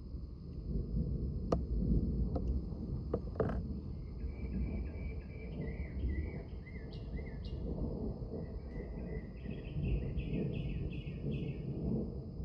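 A bird singing runs of quick repeated chirping notes, over a low steady outdoor rumble and a faint steady high-pitched tone; a few sharp clicks come in the first few seconds.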